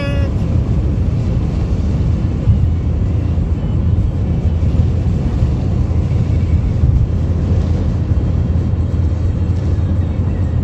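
Strong wind blowing hard and buffeting the microphone in a dust storm: a loud, steady, uneven rumble with no pitch to it.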